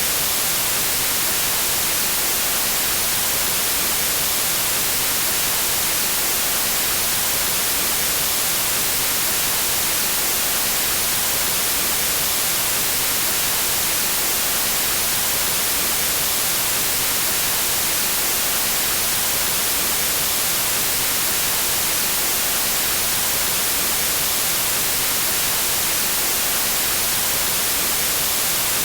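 Pure white noise: a steady, even hiss across the whole range, brightest in the high frequencies, with no change in level.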